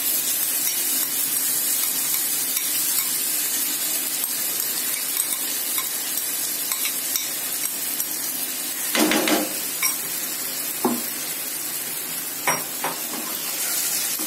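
Soaked red lentils sizzling in hot oil as they are scraped into a frying pan of fried onion, tomato and spices. In the second half a spoon knocks against the bowl and pan a few times, loudest about 9 seconds in.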